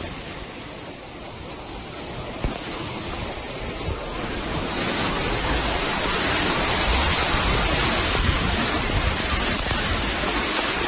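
Steady rushing noise of floodwater, growing louder about four to five seconds in.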